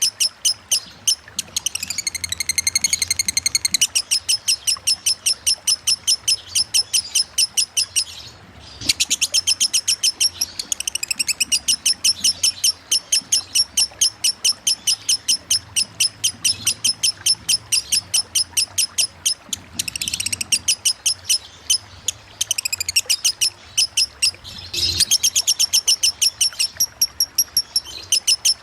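Lovebird ngekek song in 'konslet' style: long strings of fast, evenly repeated high chattering notes, several a second, broken by a short pause about eight seconds in.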